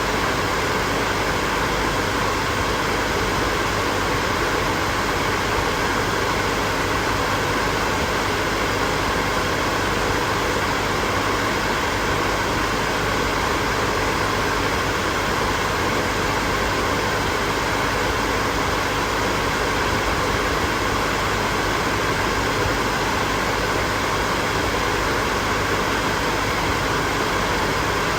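Hair dryer blowing steadily, a constant rushing whoosh of air with a faint motor hum and no change in speed.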